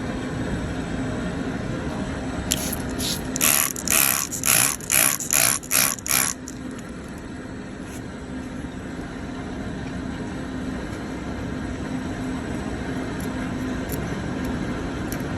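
Hoof being worked to clear rocks from under the sole: a quick run of about ten short, sharp hissing strokes a few seconds in, over a steady low hum.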